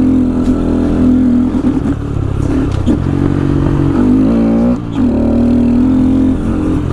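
A 2015 Honda Grom's 125 cc single-cylinder engine pulling steadily in second gear under a motorcycle rider. About four and a half seconds in, the engine note drops briefly as the throttle eases off, then picks up again.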